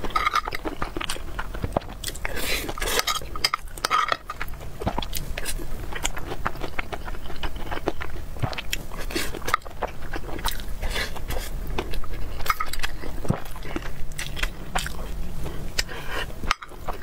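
Close-miked chewing of a mouthful of egg fried rice, full of wet mouth clicks and smacks, with a metal spoon scraping the glass bowl as it scoops.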